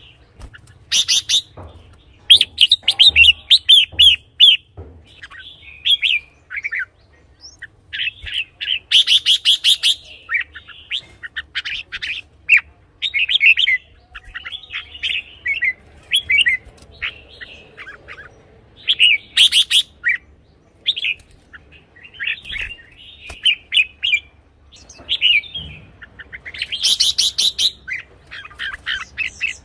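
Red-whiskered bulbul singing: short, bubbly, warbling phrases repeated with brief pauses, with a louder, sharper phrase every several seconds.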